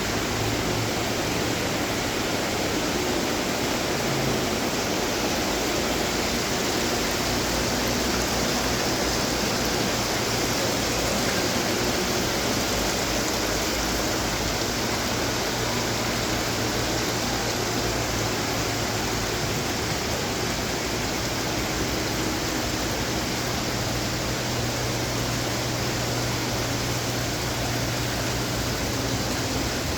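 Water splashing and falling steadily from running garden fountains, with a faint low hum underneath.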